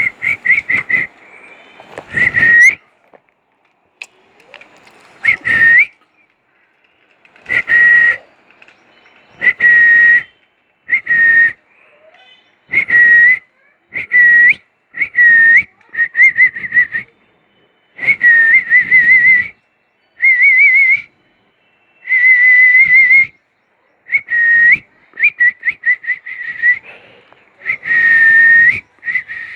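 A long series of short whistled notes at much the same high pitch, some held steady and some warbling, with short pauses between them.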